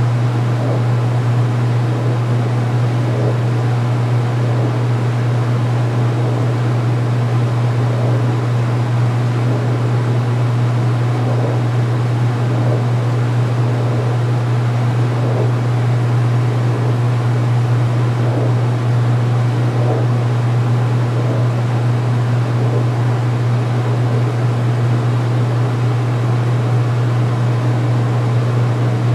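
2016 Speed Queen top-load washer in its final spin, running with a steady hum.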